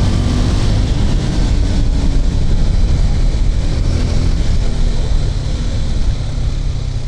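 KTM RC 390's single-cylinder engine running steadily as the motorcycle rides along, under a constant rush of wind and road noise; the level eases off a little near the end.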